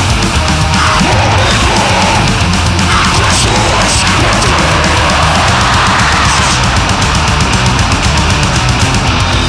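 Grindcore band playing at full volume: heavily distorted guitars over very fast drumming, a dense, unbroken wall of sound.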